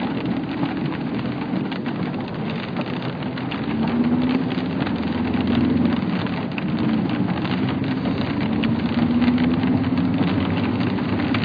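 Rain pattering hard on a surface, a dense patter of small drop hits, with a steady low hum underneath.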